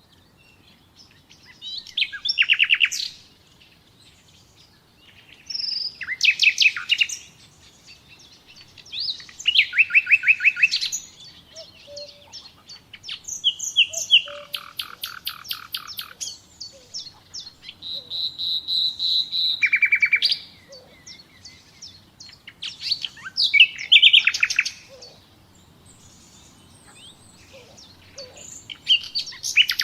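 Common nightingale singing in separate phrases of a second or two, each made of rapid repeated notes and trills, with short pauses between them. One phrase about two-thirds of the way through opens with a long steady whistle.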